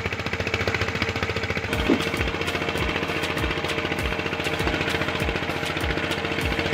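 Stationary diesel engine running steadily with a fast, even firing rhythm. From about two seconds in, a deeper thud repeats a little more often than once every half second.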